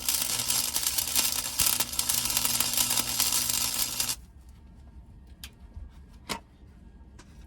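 A welding arc crackling and sputtering on sheet-steel car floor pans for about four seconds, then cutting off abruptly as the trigger is released, followed by a few faint clicks.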